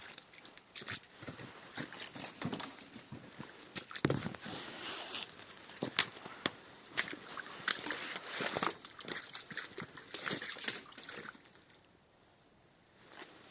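Irregular sloshing and crackling of a person moving through wet swamp ground and undergrowth, with scattered sharp snaps; it goes quiet for a moment near the end.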